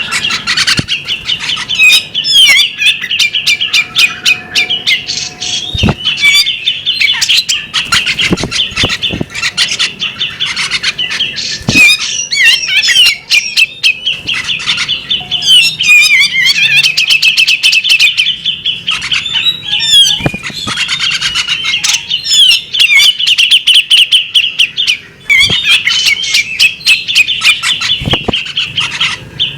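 Female bearded magpie-robin singing almost without pause: fast, varied chattering phrases of rapid high notes and trills, broken by a few short gaps. A few soft knocks sound now and then.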